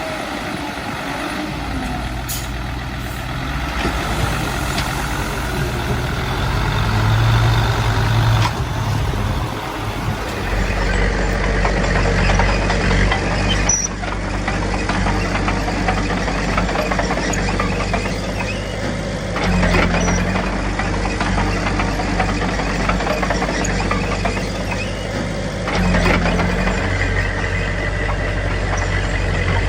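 Diesel engines of earthmoving machines, a small bulldozer and dump trucks, running steadily, with the engine note rising twice under load in the second half.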